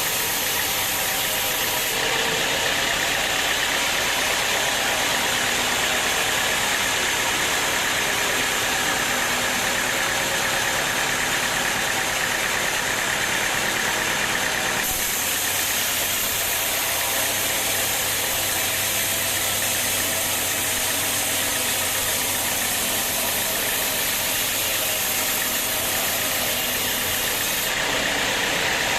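Sawmill machinery running steadily: a continuous engine-like drone with a dense hiss over it. The hiss in the high end changes abruptly about two seconds in, again about halfway through and near the end.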